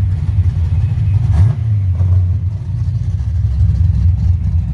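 Car engine running with a deep, steady rumble, briefly swelling about a second and a half in.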